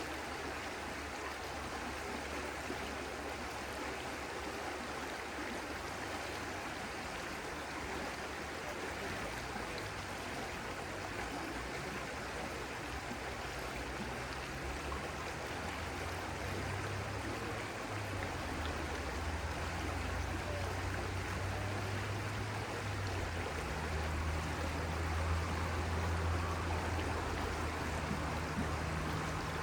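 Stream water flowing steadily. A low hum underneath grows louder from about halfway through.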